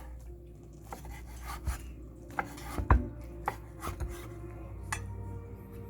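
Kitchen knife knocking on a cutting board in irregular chops, about seven strikes, the loudest about three seconds in, over a low steady hum.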